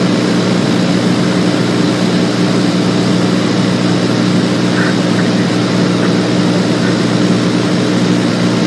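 Single-engine propeller aircraft in flight, its engine and propeller giving a loud, steady drone with an even low hum that does not change.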